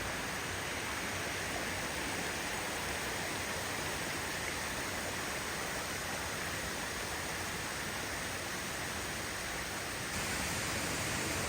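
Steady rushing of a flowing river, an even noise with no distinct events, stepping up slightly in level about ten seconds in.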